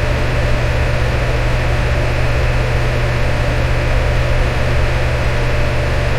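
Electric fan running steadily: an even rush of air over a constant low hum.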